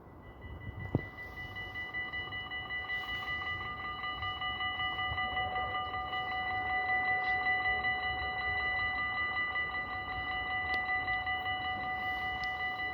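Two railway level-crossing warning bells ringing rapidly and continuously, one starting as the crossing activates and the second joining about a second in. This is the warning that a train is approaching.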